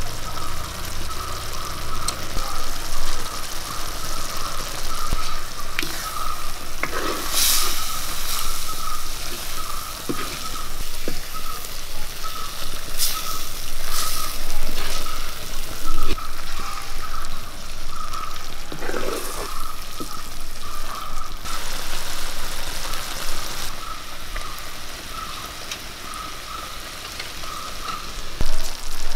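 Egg roast masala with whole boiled eggs sizzling and frying in a pan, with a spatula stirring and scraping against the pan now and then. A thin high pulsing tone repeats steadily in the background.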